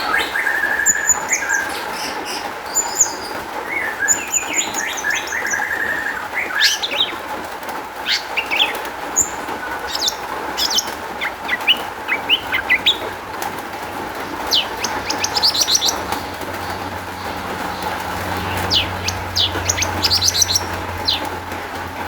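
Long-tailed shrike (cendet) singing a varied song of short chirps, quick trills and sweeping notes, the mixed, mimicry-filled 'isian' song of a bird in full voice.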